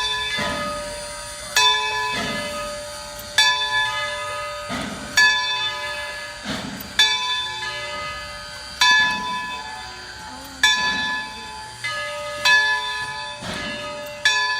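Locomotive bell ringing steadily, one swinging stroke about every two seconds, each strike ringing on into the next.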